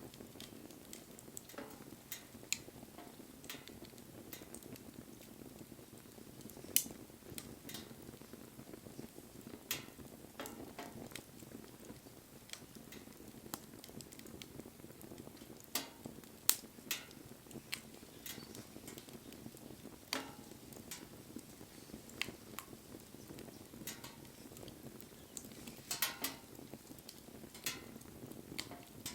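Wood fire crackling: irregular sharp pops and snaps over a steady low rush of burning flames.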